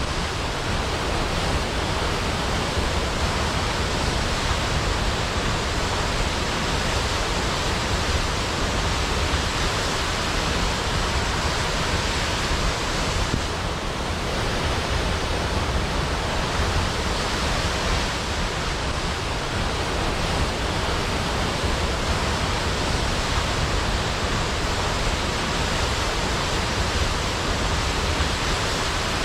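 Large waterfall pouring down a cliff into a pool: a steady, dense rush of falling water.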